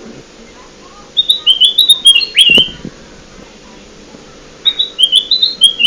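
Kutilang emas (a bulbul) lure call: two phrases of quick, high chirping notes, each about a second and a half long, the second starting shortly before the end.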